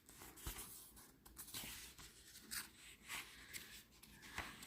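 Faint rustling of paper as the pages of a small card-deck guidebook are leafed through, with a few light ticks as pages turn.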